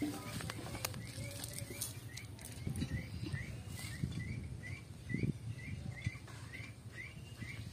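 A bird repeats a short rising chirp a little over twice a second, steady throughout, over soft rustling and knocking from a cast net being handled on dry grass.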